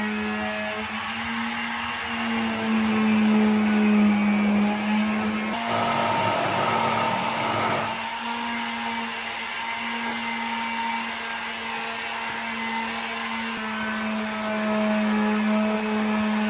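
An electric power tool's motor running with a steady hum, with a harsher, noisier stretch of about two seconds partway through.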